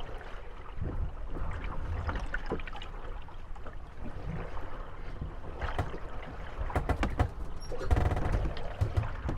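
Moored wooden gondolas rocking on the waves: water lapping at the hulls under scattered knocks and taps as the boats bump and rub together. About eight seconds in comes a louder cluster of knocks with a creak.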